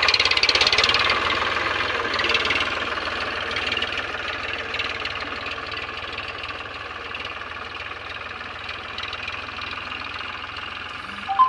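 Eicher tractor's diesel engine running with a steady rapid knocking beat, gradually growing fainter. A brief higher tone sounds just before the end.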